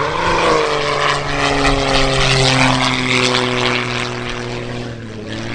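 Propeller airplane making a fast low pass at full power, its engine drone swooping in pitch as it goes by and then falling slowly away as it recedes.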